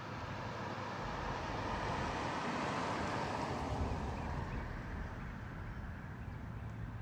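A vehicle passing by: road noise swells over the first few seconds, peaks near the middle and slowly fades away.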